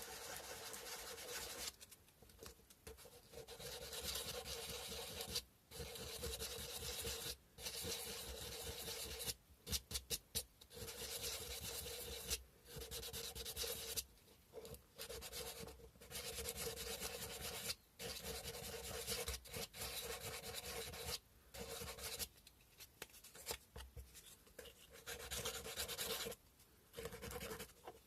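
Sandpaper rubbed by hand over a cow-bone carving: scratchy strokes in runs of a few seconds with short pauses between, and a patch of quick short strokes about ten seconds in.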